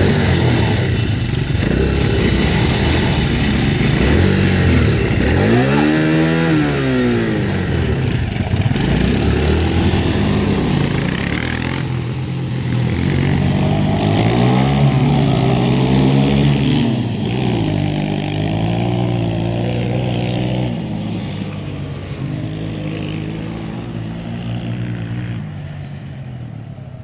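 Motocross bike engines revving hard and shifting up through the gears, their pitch climbing and dropping again and again as the bikes race by. The sound fades away over the last few seconds.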